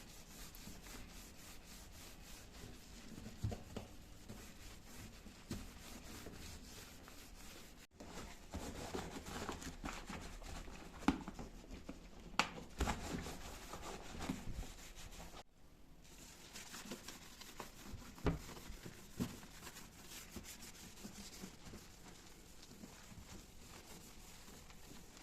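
Household handling sounds: rustling and crinkling with scattered light knocks and taps, in three segments that each stop abruptly.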